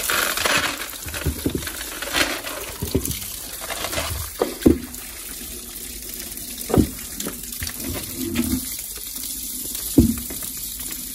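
Tap water running and splashing as pounded beans are washed, the running water strongest in the first couple of seconds, followed by scattered knocks and sloshes.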